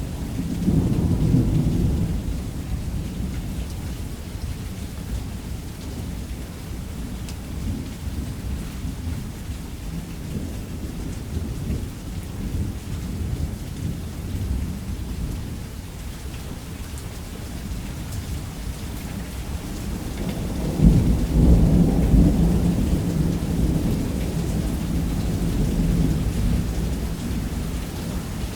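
Thunderstorm: rain falling steadily on a roof under continuous low rolling thunder. The thunder swells into a loud roll about a second in, and into a longer, louder roll about three-quarters of the way through.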